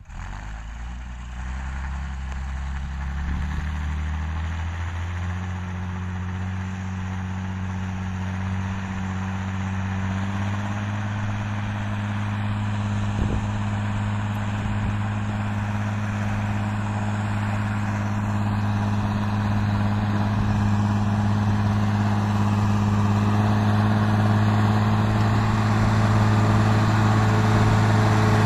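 Fendt tractor engine running. Its pitch rises in steps over the first ten seconds, then holds steady while the sound grows slowly louder. A single short knock comes about 13 seconds in.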